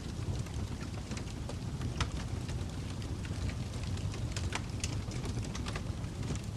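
Fire crackling: a steady low rumble of burning with frequent small pops and snaps, a sharper pop about two seconds in and a cluster of them near the end.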